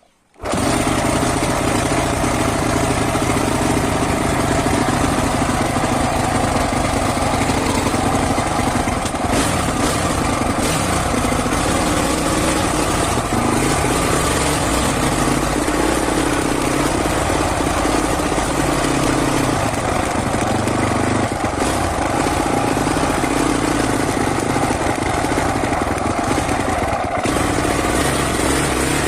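Husqvarna 450cc enduro motorcycle's single-cylinder engine running continuously as the bike is ridden, heard from an on-board action camera. It cuts in sharply at the start and holds a steady, loud level.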